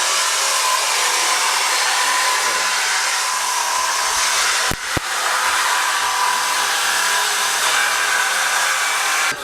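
Shop cutting tool running with a steady loud hiss as it cuts through the car's exhaust to take off the stock muffler. It breaks off briefly with a couple of sharp clicks about five seconds in.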